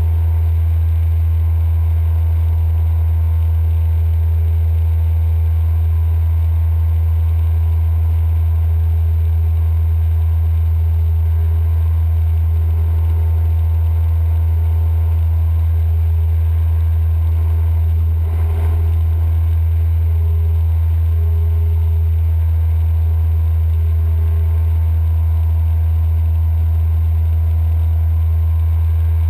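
Cessna 172M's four-cylinder Lycoming O-320 engine and propeller running steadily, a loud, even low drone heard inside the cabin, with a brief click about 18 seconds in.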